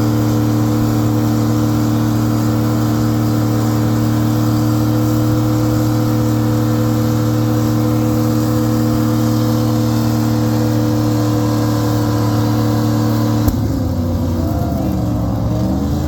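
Truck engine running at a steady speed with an even, unwavering note. About three seconds before the end it cuts off abruptly with a click, and a different sound with wavering, gliding pitch takes over.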